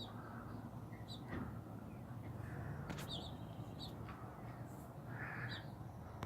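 Small birds chirping faintly: short high chirps in twos and threes every second or two, with one sharp click about three seconds in.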